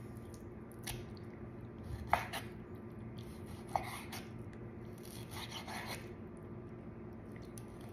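A kitchen knife cutting raw chicken breast into chunks on a cutting board: a few soft knocks of the blade on the board and a scraping, rubbing stretch about five seconds in.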